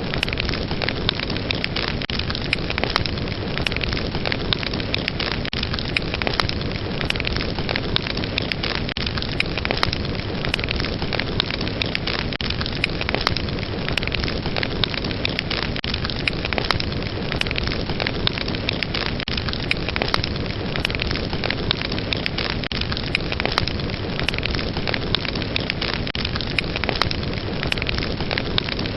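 Fire crackling steadily: many quick pops and snaps over a continuous hiss of flames.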